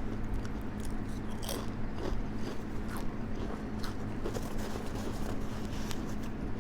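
Close-up crunching and chewing of crispy chips, with sharp irregular crunches about every half second to second, over a fan's steady low hum.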